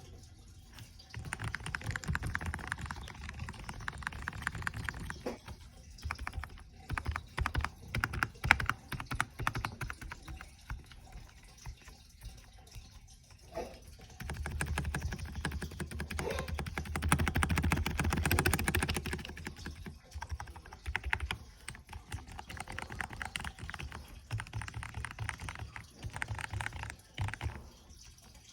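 Typing on a membrane computer keyboard: fast runs of key presses lasting a few seconds each, broken by short pauses.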